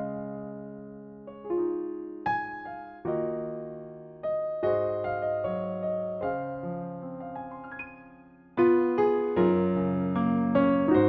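Slow, gentle background piano music of single notes and chords that each fade away; it grows fuller and louder about eight and a half seconds in.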